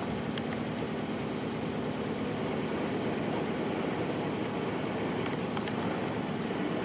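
Nissan Diesel Space Runner RM (KC-RM211) mid-size bus running along the road, heard from inside the passenger cabin: the FE6-series diesel engine drones steadily under road noise.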